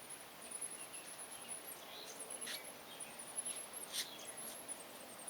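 Faint high-pitched chirping in quick stuttering runs, with a couple of soft ticks about two and a half and four seconds in.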